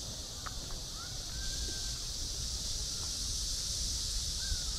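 Outdoor park ambience under a steady high-pitched hiss, with a low rumble. Short rising-and-falling bird calls come about a second in and again near the end.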